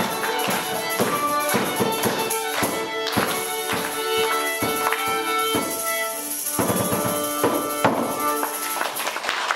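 Folk ensemble playing an instrumental tune: sustained melody notes over a steady beat of percussion strikes, about two to three a second.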